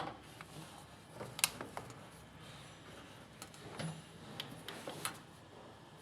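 Scattered light clicks and knocks at irregular intervals, the sharpest about a second and a half in, from small hard objects being handled.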